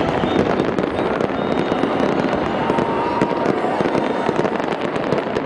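Fireworks display: shells bursting in a dense, near-continuous barrage of rapid bangs and crackles.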